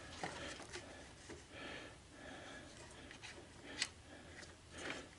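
Faint handling noises: scattered light clicks and rustles, with one sharper click a little under four seconds in.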